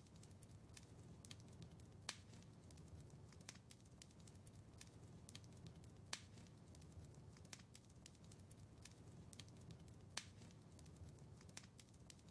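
Wood fire crackling faintly in a fireplace: irregular sharp pops and snaps over a low steady rumble, with louder pops about two, six and ten seconds in.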